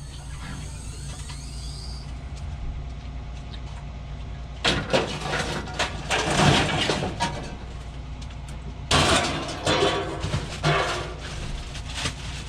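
Vehicle engine idling steadily, with two loud stretches of harsh, clattering noise about five and nine seconds in.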